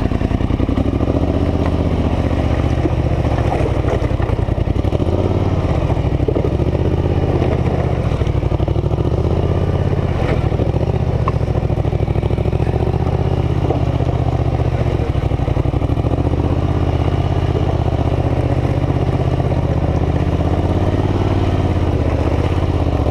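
Polaris Scrambler 850 ATV's twin-cylinder engine running without a break, its pitch shifting up and down a little now and then.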